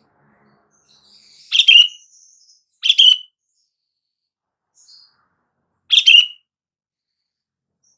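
Sooty-headed bulbul (kutilang) calling: three short, bright call phrases, the first two about a second and a half apart and the third about three seconds later.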